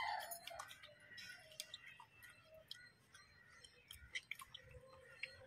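Faint eating sounds of rice being eaten by hand: chewing and lip smacking, heard as a scatter of small clicks.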